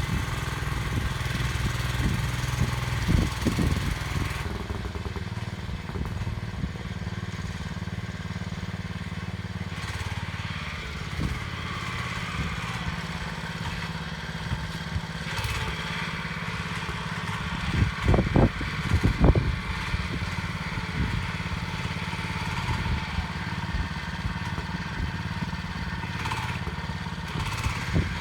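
Small crank-start Howard Gem tractor engine running steadily while digging up ground, with a few knocks and clatters, loudest about eighteen to nineteen seconds in.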